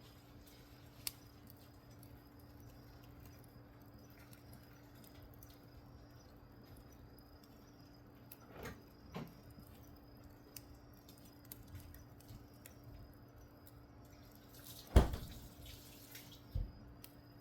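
Wood fire used to light charcoal crackling quietly, with a few scattered sharp pops, the loudest about fifteen seconds in.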